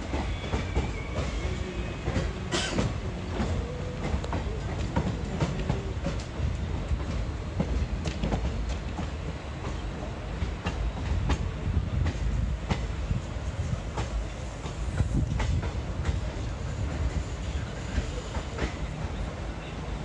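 Indian Railways passenger train running along the track: a steady rumble of the coaches with sharp wheel clicks over rail joints at uneven intervals.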